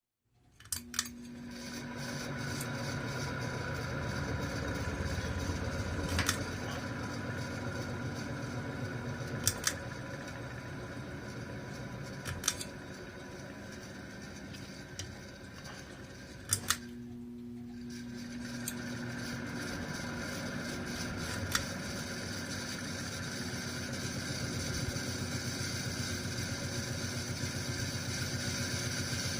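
A machine running on bad bearings: a steady mechanical drone with a constant hum in it and sharp clicks every few seconds. About seventeen seconds in the running noise briefly drops away, then comes back.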